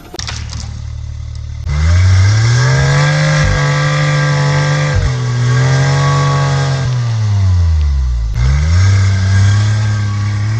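Supercharged three-cylinder kei mini truck engine revving hard while driving through slick snow without the rear diff lock engaged. The revs jump up a couple of seconds in, hold high with a brief dip, fall away about eight seconds in, then climb again.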